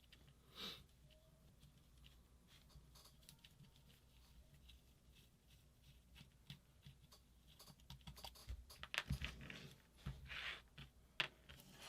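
Faint handling noise of small parts and tools being worked on a bench: scattered light clicks and taps, with a cluster of sharper clicks in the last few seconds.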